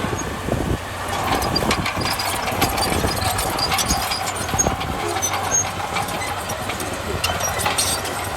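Diesel engine of heavy earthmoving machinery running, its sound picking up about a second in, with frequent metallic clanks and knocks.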